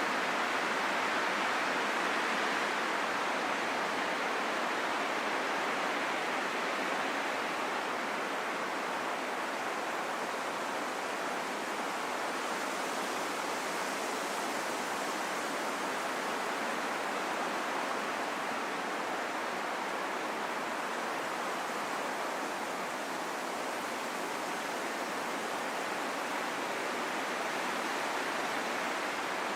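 Steady rushing wind noise that swells and eases only slightly, with no gusts or breaks.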